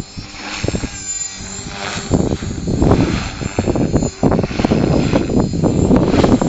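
Align T-Rex 450 Pro electric RC helicopter flying close by: a steady motor and rotor whine under loud, uneven gusty noise.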